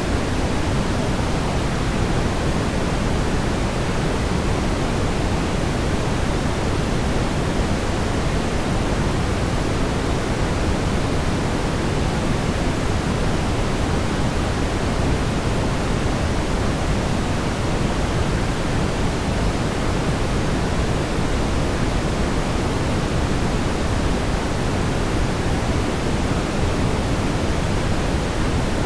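Steady brown noise: a constant, even rumbling hiss with most of its weight in the bass and the highs rolled off.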